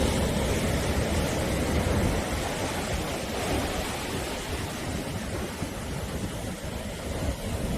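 Sea waves washing onto the shore in a continuous rush with a deep low rumble. The rush swells over the first few seconds and then eases a little.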